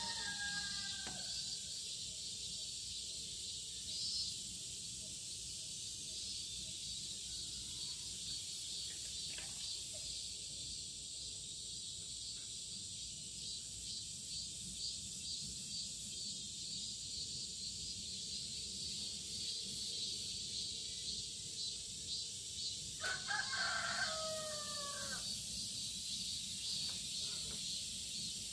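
Cicadas shrilling in a steady high drone that pulses for a stretch in the middle, with a rooster crowing once near the end and the tail of another crow at the very start.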